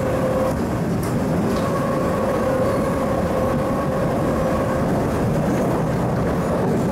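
MTR East Rail line MLR electric multiple unit running on the line, heard from inside the car: a steady rumble of wheels on track with a steady whine from the traction equipment, which fades briefly about a second in and then returns.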